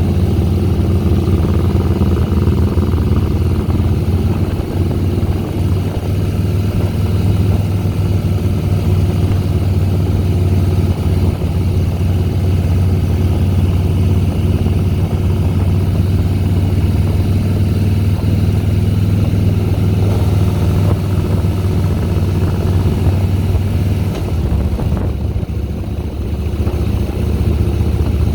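Harley-Davidson Softail Deluxe's Twin Cam 96 V-twin engine running steadily under way. About 25 seconds in it eases off briefly, the note dropping, then picks up again.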